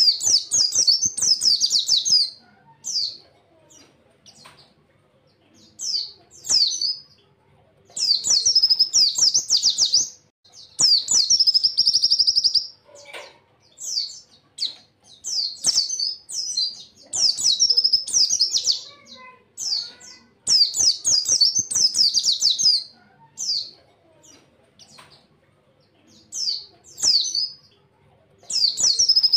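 Pleci (white-eye) songbird singing: bursts of fast, high twittering, each a second or two long, repeated again and again with short pauses between them.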